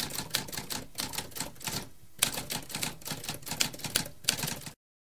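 Typewriter keys striking in a rapid clattering run, with a short pause about two seconds in, then stopping abruptly near the end.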